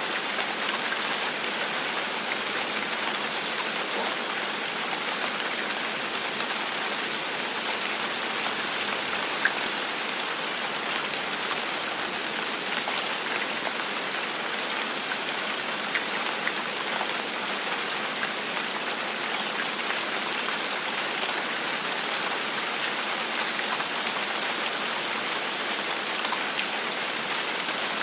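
Gentle rain falling steadily: an even hiss with scattered small drop ticks.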